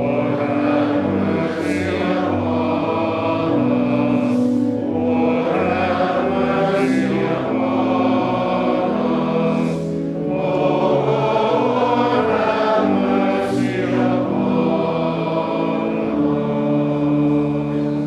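Choir singing a slow chant in harmony, with held notes in phrases a few seconds long.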